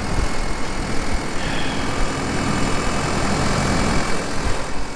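A heavy engine idling steadily, with a faint higher whine in the middle.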